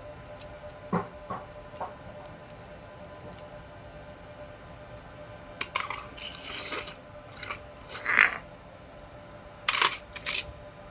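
Small metal parts clinking and scraping as they are handled: a few light clicks, then a busier run of clinks and scrapes in the second half.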